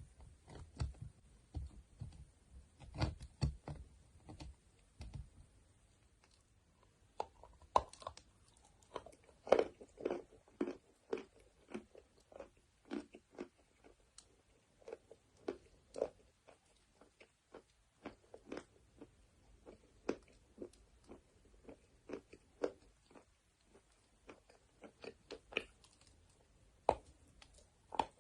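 Close-up chewing and crunching of chalk, a sharp crunch about once or twice a second. Low dull thumps come in the first few seconds.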